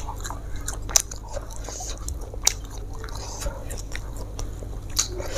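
Close-miked chewing and biting of food, with four sharp clicks spread through it.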